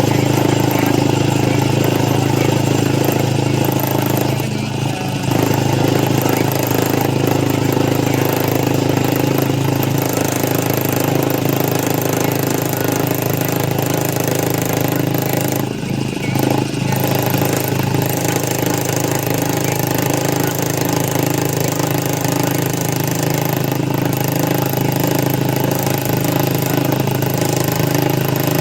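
A machine-shop machine running steadily with a constant motor hum, briefly easing off about four seconds in and again about sixteen seconds in.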